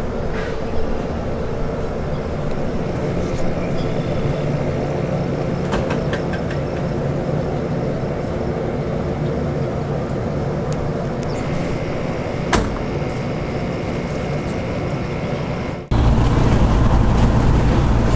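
Car engine and road noise running steadily, with a few sharp knocks along the way. Near the end the sound cuts abruptly to a louder, deeper engine sound.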